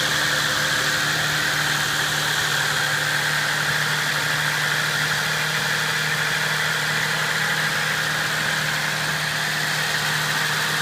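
2008 Ford Fusion's 3.0-litre V6 engine idling steadily, with an even pitch and no revving.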